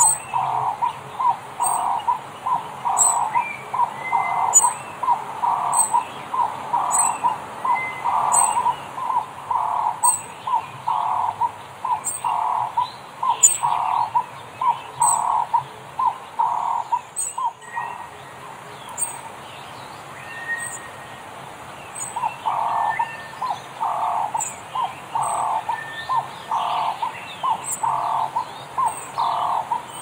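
Birds calling: one call repeated about twice a second, which pauses for a few seconds past the middle and then resumes, over short high whistles and regular very high ticks.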